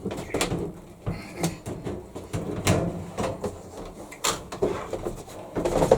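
Inner wash tub of a Hitachi Beat Wash BW-V80C washing machine being worked loose and pulled out of the outer tub: irregular plastic knocks, scrapes and rattles.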